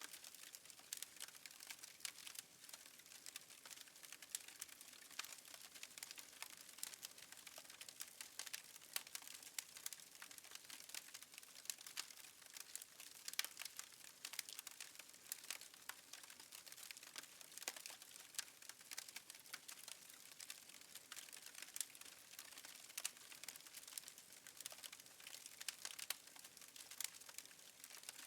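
Faint, irregular crackling of a fireplace fire: many small pops and snaps.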